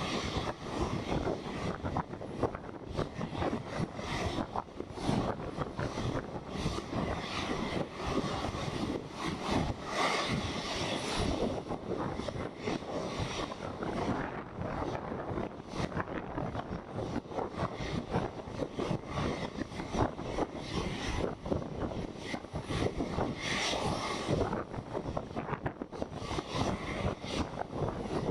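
Airliner jet engines running at low taxi power, a steady whine under gusty wind buffeting the microphone.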